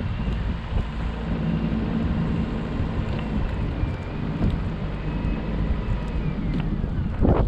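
Car driving in a snowstorm: steady engine and road rumble mixed with wind noise, with a short, louder whoosh or thump near the end.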